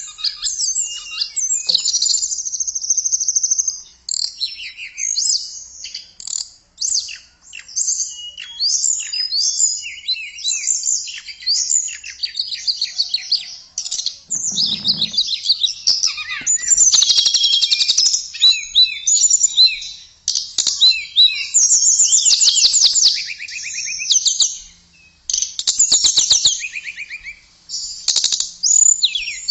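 Tledekan songbird singing a fast, varied high-pitched song of chirps, trills and rapid note runs, broken by short pauses, with a soft low thump about halfway through.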